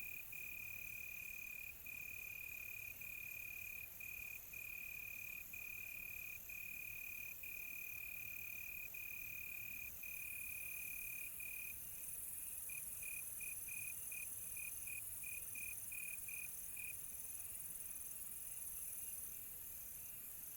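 Night crickets chirping: a loud, high, steady trill broken by short pauses about once a second. About halfway through it becomes choppy, then stops about two-thirds through. A higher, fainter chorus of insects goes on underneath.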